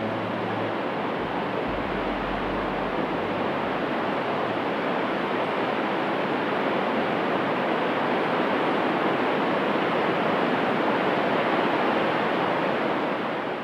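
Steady rushing roar of a tall waterfall plunging down a cliff, as at Sounkyo's Ginga and Ryusei Falls, with the last low notes of background music dying away in the first few seconds; the roar fades out at the very end.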